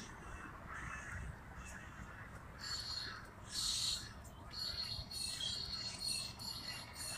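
Birds calling: a run of short, high-pitched calls starting about two and a half seconds in, loudest around four seconds in, over a faint low rumble.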